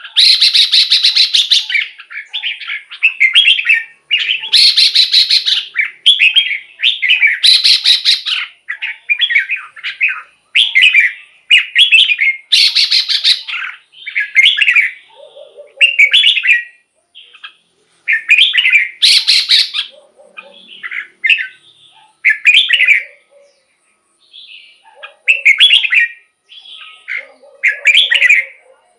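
Red-whiskered bulbul singing short, warbling phrases one after another, with several louder, harsher notes among them.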